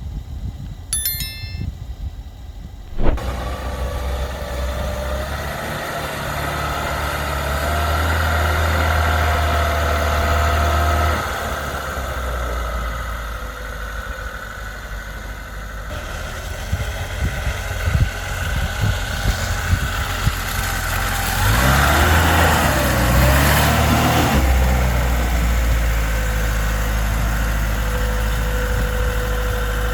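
A motor vehicle engine running, starting about three seconds in after a sharp click, with its pitch shifting up and down in steps.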